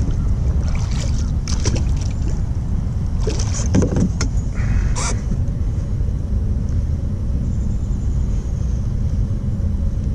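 Wind buffeting the microphone as a steady low rumble. A few clicks and knocks in the first half, the sharpest about five seconds in.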